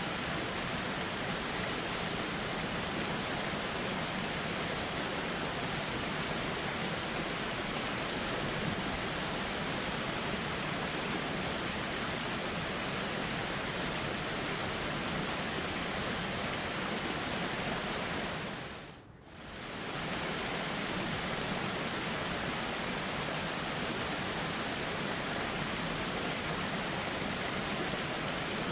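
Steady rushing of flowing river water, an even noise with no separate events. About two-thirds of the way through it fades down sharply for about a second and comes straight back up.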